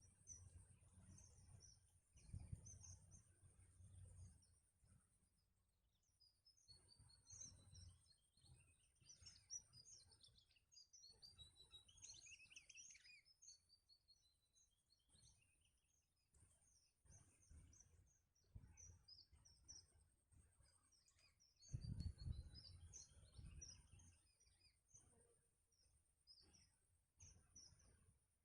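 Faint, rapid high chirping of small birds, scattered and irregular, over a thin steady high hiss, with low dull rumbles a couple of seconds in and again near the middle.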